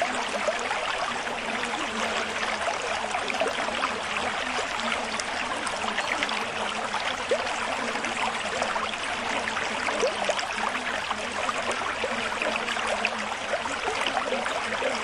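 Steady trickling, bubbling water sound: a continuous patter of many tiny droplet-like ticks that neither builds nor stops.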